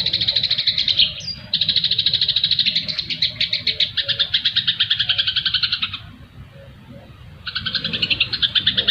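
Songbird chattering in fast runs of sharp, high repeated notes, about a dozen a second. It breaks off for about a second and a half, then starts again.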